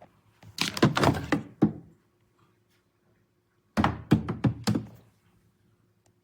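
Two quick runs of dull thunks, each of several knocks over about a second, the second run starting about two seconds after the first ends, with a faint steady hum beneath.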